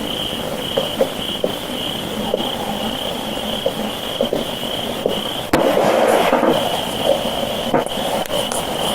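A steady high trilling chorus of night insects, with scattered faint clicks. About five and a half seconds in comes a sharp knock, followed by about a second of louder rough rustling noise.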